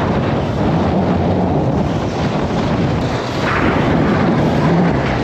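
Wind buffeting the microphone on a moving electric dirt bike: a loud, steady, rumbling rush with no clear engine tone.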